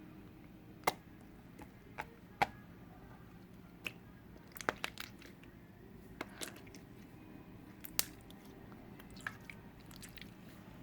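Irregular, sharp crunching clicks, about a dozen short ones spread unevenly over faint room noise.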